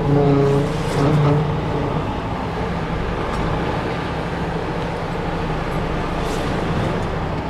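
Semi truck's diesel engine running while the rig reverses slowly, with a low, steady droning tone in the first two seconds that gives way to an even engine noise.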